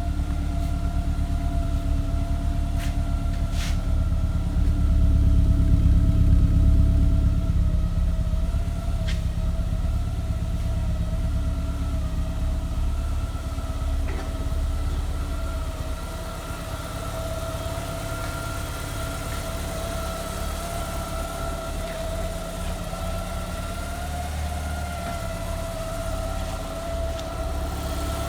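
Lancia Delta Integrale Evo2's turbocharged 2.0-litre four-cylinder idling after a cold start, with a steady whine over the engine note. The idle rises a little a few seconds in, then settles lower and evens out.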